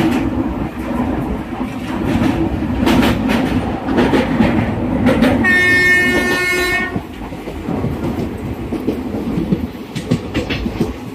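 Express train running at speed, with steady rumble and irregular clatter of wheels over rail joints. A locomotive horn sounds once midway for about a second and a half.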